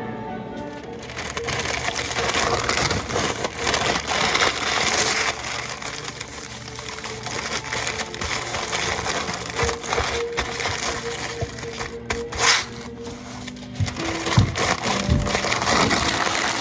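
Background music over continuous rough, crackly kitchen food-prep noise, with a few sharp knocks near the end.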